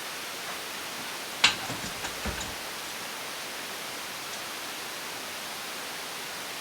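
Handling noise at a workbench: one sharp knock about a second and a half in, followed by a few lighter clicks and a dull thump, over a steady hiss.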